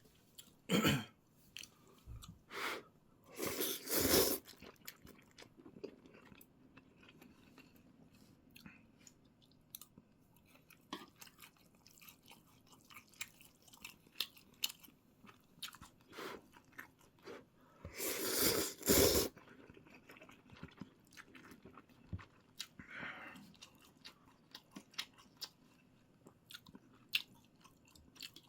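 Close-up chewing and wet mouth clicks of someone eating noodles and meat. Three louder noisy bursts of about a second each interrupt it, near the start, around four seconds in and about two-thirds of the way through.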